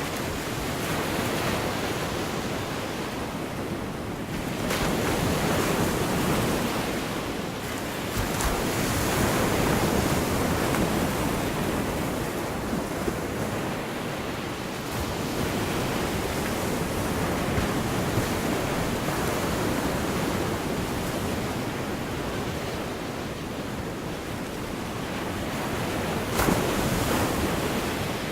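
Gulf of Mexico surf breaking and washing on the beach, a steady rush that swells and fades with each wave every few seconds. A brief sharp sound stands out near the end.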